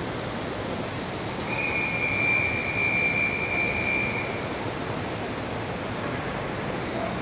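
Steady rushing rail noise with a high, even wheel squeal held for about three seconds, starting a second and a half in.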